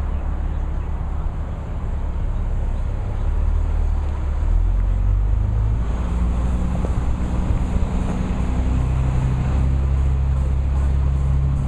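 Heavy diesel engine running steadily, its low note shifting a few times.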